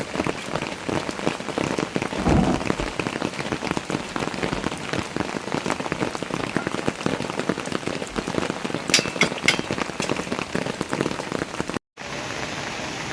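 Heavy rain falling, with dense drop strikes close to the microphone and a low thud about two seconds in. Near the end the sound cuts briefly and gives way to a smoother, even rain hiss.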